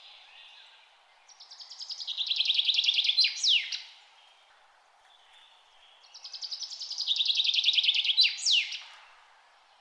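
A songbird singing two songs a few seconds apart, each a fast trill of high notes that swells in loudness and ends in a sharp downward-sweeping note, over a faint steady background hiss.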